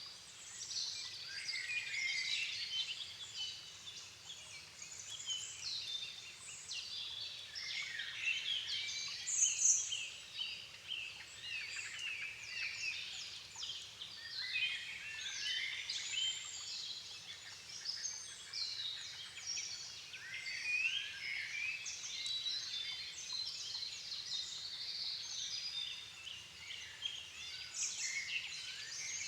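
Dusk chorus of many songbirds singing at once, their overlapping chirps, trills and whistles running on without a break.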